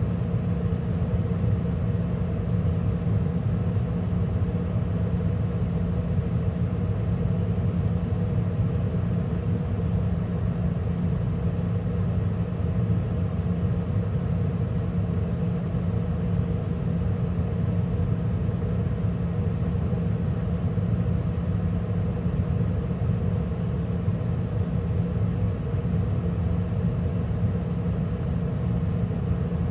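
Carrier gas furnace running steadily mid-cycle, with the gas burners firing and the inducer and circulation blower running: an even low rumble with a steady hum.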